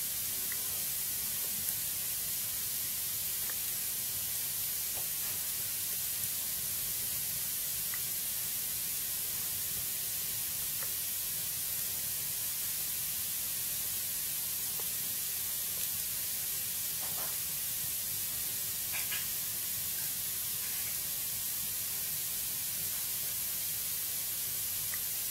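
Wood fire burning in a fireplace: a steady hiss with sparse, faint crackles and pops, a few seconds apart.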